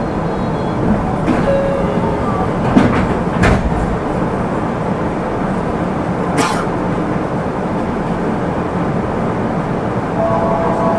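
Tokyu 9000-series electric train running, heard from inside the car as it pulls away from a station. Under the steady rumble come a few sharp clacks of the wheels over rail joints, about three and three and a half seconds in and again about six and a half seconds in.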